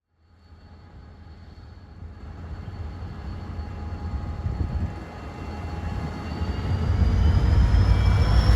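Diesel locomotive hauling a passenger train, its engine rumbling deeply with a steady high whine that rises slightly in pitch, growing steadily louder.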